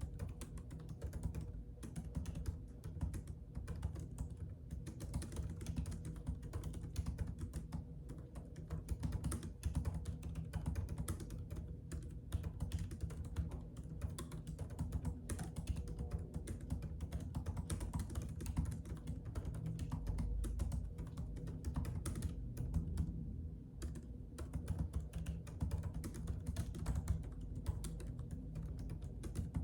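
Typing on a computer keyboard: a steady, rapid run of irregular keystroke clicks with a few brief pauses.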